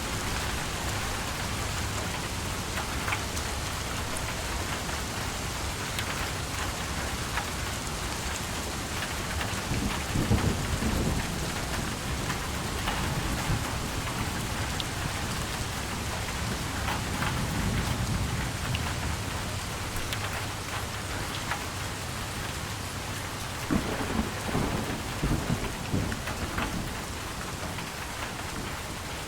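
Steady rain falling, with low rolls of thunder three times: a third of the way in, past the middle, and a sharper, crackling roll near the end.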